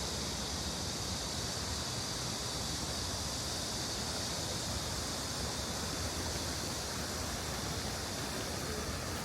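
Steady rushing of flowing stream water, an even wash of noise with no breaks.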